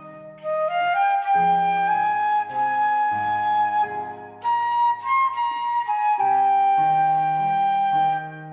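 Flute playing a slow lyrical melody over an accompaniment of low held notes, the phrases separated by short pauses.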